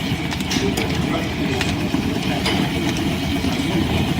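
Line-shaft-driven wood lathe running: a steady mechanical rumble from the shafting and belts, with irregular light clicks over it.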